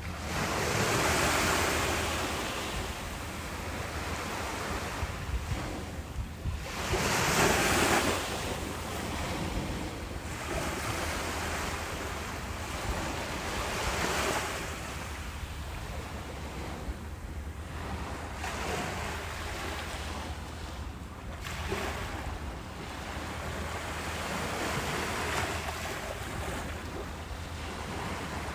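Ocean waves breaking on a beach, a wash of surf swelling and fading about every six seconds, over a steady low rumble of wind on the microphone.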